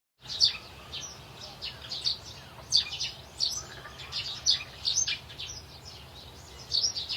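Bird chirping: a quick series of short, high, downward-sliding chirps, starting abruptly about a quarter second in out of total silence.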